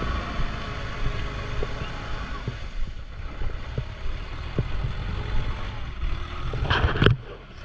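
Mahindra Yuvo 575 DI tractor's diesel engine running steadily, with a loud short burst of noise about seven seconds in.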